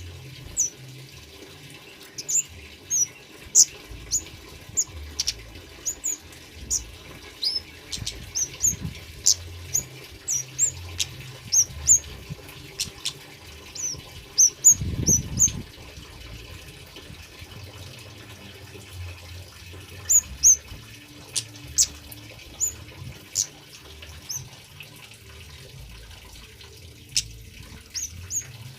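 Male kemade bird calling: many short, sharp, high chirps, irregularly spaced, over a steady trickle of water. A brief low rumble comes about halfway through.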